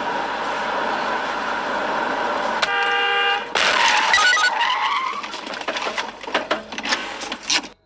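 Steady road noise from a moving car. A car horn sounds for under a second, then a loud tyre screech and crash with a run of sharp knocks and clatters, cutting off suddenly near the end.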